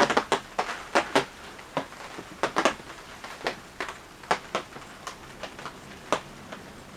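Irregular sharp clicks and pops, a few a second, over a faint steady background.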